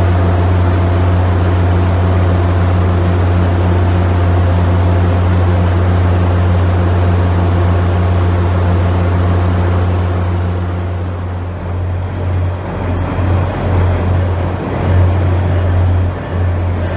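Train sounds at a station platform: a steady low hum with several overtones while an Amtrak Acela trainset pulls away. About eleven seconds in, this gives way to an uneven low rumble on an underground platform as another train approaches.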